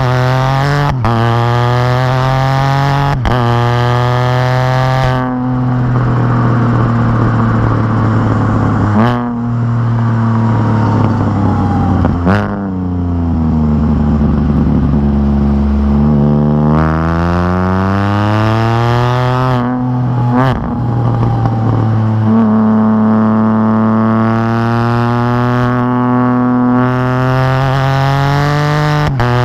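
Can-Am Spyder RT's Rotax three-cylinder engine through an RLS Crusher exhaust with the catalytic converter deleted, giving a loud, deep exhaust note on the road. It revs up through several quick gear changes, eases off and drops in pitch in the middle, then pulls up through the gears again and settles into a steady cruise near the end.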